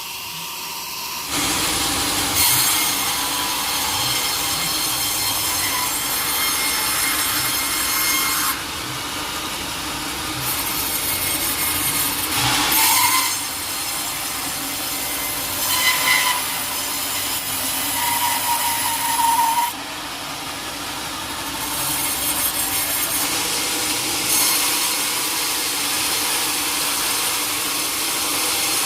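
Sawmill blade cutting through a teak log, a dense rasping whine with the level jumping abruptly several times.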